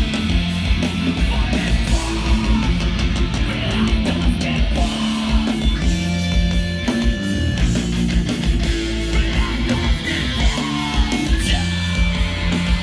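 Live hardcore band playing loudly: distorted electric guitars and bass over steady drum hits.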